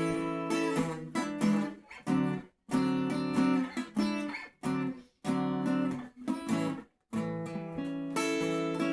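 Acoustic guitar played alone, strummed chords with picked notes, stopping briefly for short pauses a few times.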